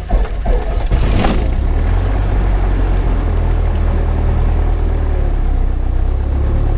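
Cessna 172 Skyhawk's piston engine just after starting, uneven for the first second or so, then settling into a steady idle.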